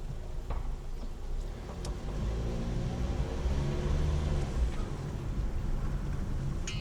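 Car driving, with low engine and road rumble heard from inside the cabin. About two seconds in the engine note rises as the car speeds up.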